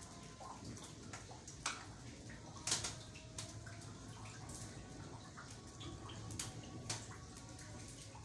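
Rain water dripping and splashing, with irregular sharp drops roughly once a second, the loudest about a third of the way in, over a steady low hum.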